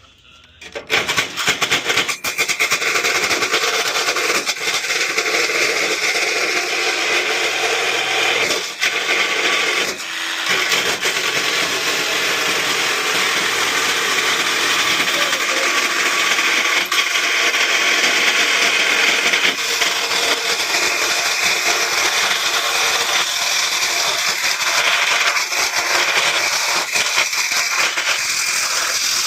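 Power tool running steadily while cutting metal, starting about a second in and dropping briefly near the middle.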